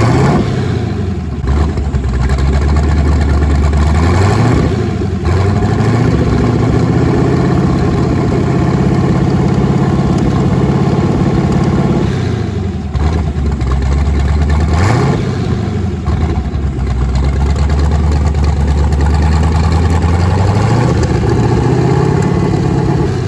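Twin-turbocharged LSX V8 running on its first start on a base tune, its engine speed dipping and climbing again several times.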